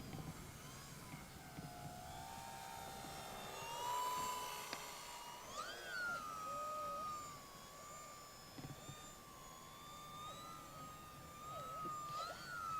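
Electric motor and propeller of an RC high-wing model plane flying slowly overhead, a steady whine whose pitch drifts up and down, rising briefly twice, about halfway through and near the end.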